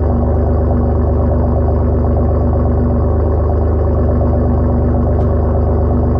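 Alfa Romeo GTV 2.0 V6 Turbo engine idling steadily through a Fox aftermarket exhaust on a cold start, not revved.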